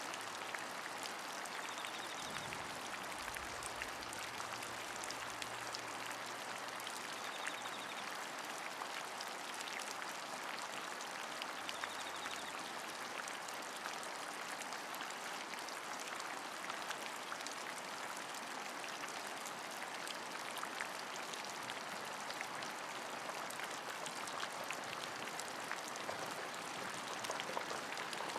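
Steady rain falling, an even hiss scattered with many small, separate drop ticks.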